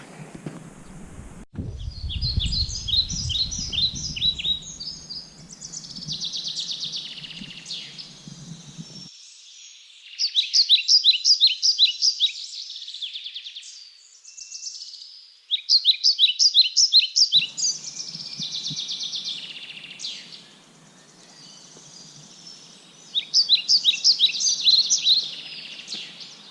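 A songbird singing: four phrases of fast, repeated high notes a few seconds apart. A brief low rumble comes about two seconds in.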